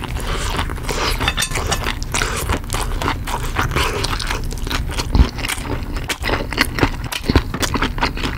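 Close-miked chewing of a full mouthful of food: wet, crackly mouth sounds with many quick clicks. There is a short low thump about five seconds in and another near the end.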